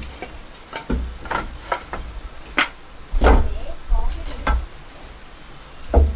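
Irregular knocks and thumps, about nine in six seconds, several with a heavy low thud, as of wooden pieces being handled and struck during building work.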